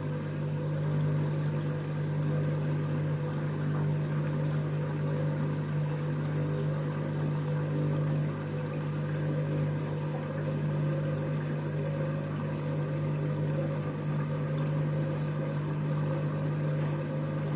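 Candy washing machine running with a steady hum during its wash cycle, which drops away right at the end.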